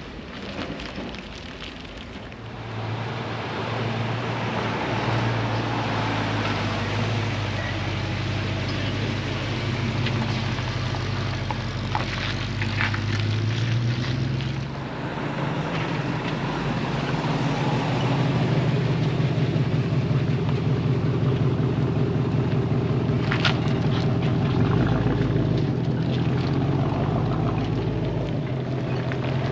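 Truck engines running at low speed. About halfway through, one engine's low steady note gives way to a second, louder and more throbbing engine.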